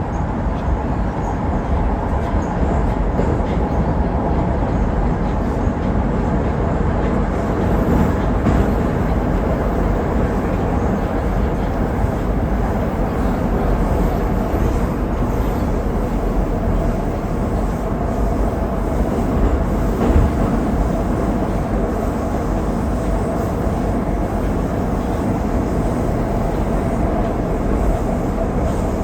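Inside an 81-761 'Oka' metro car running between stations: a steady rumble of wheels on rail and running gear, with a faint steady whine. A couple of brief knocks, about 8 and 20 seconds in.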